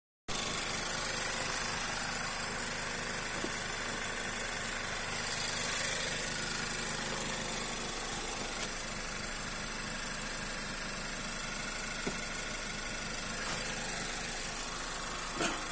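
Car engine idling steadily, with a few small knocks, the clearest near the end.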